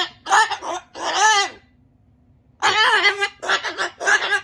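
Pet cockatoo squawking and chattering in loud, pitched calls: two calls, a pause of about a second, then a quick run of several more.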